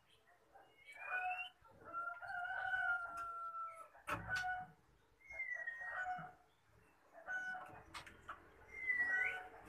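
A rooster crowing, one long drawn-out crow about two seconds in, among repeated short bird calls and a few quick rising whistles.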